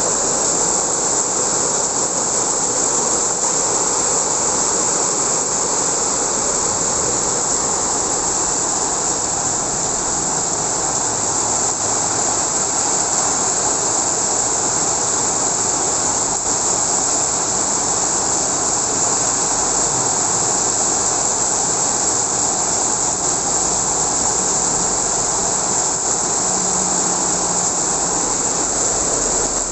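Heavy rain pouring steadily in a strong wind, with faint low rumbles now and then.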